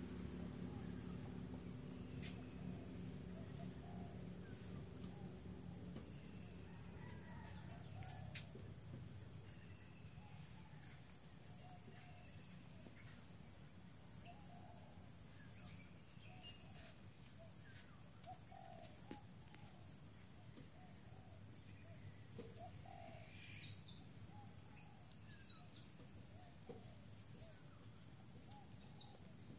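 Faint outdoor ambience: a bird repeats a short, high, rising chirp about once a second, over a steady high drone of insects.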